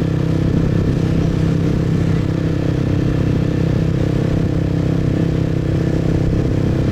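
Motorbike engine running steadily at cruising speed while riding, heard from the rider's seat.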